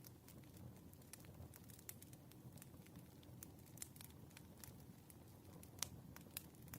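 Faint campfire crackling: scattered sharp pops and ticks over a low, steady rumble, with one louder pop near the end.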